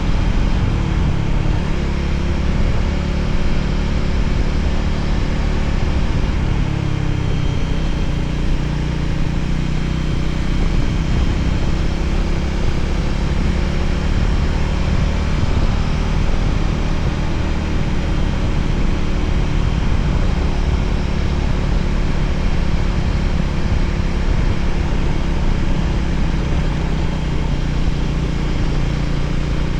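Voge 300ACX motorcycle's single-cylinder engine running steadily while riding, with a brief change in engine pitch about seven seconds in.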